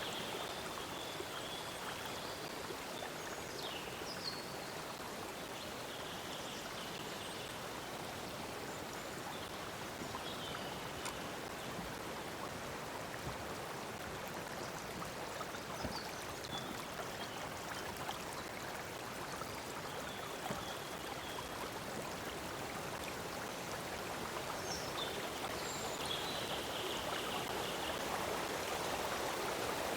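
Stream of water flowing steadily, with birds calling now and then in high short notes; the water grows a little louder near the end.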